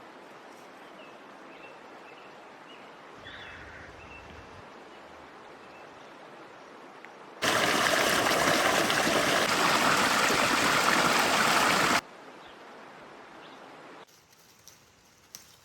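Running water, a steady rushing hiss that turns much louder for about four and a half seconds in the middle, starting and stopping abruptly. Faint short chirps sound over it in the first half.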